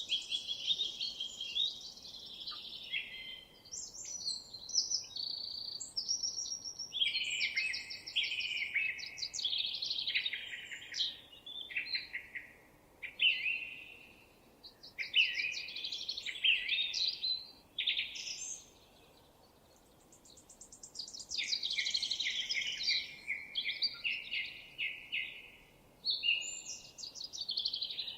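Songbird song: repeated phrases of quick chirps and trills, with a few seconds' pause about two-thirds of the way through.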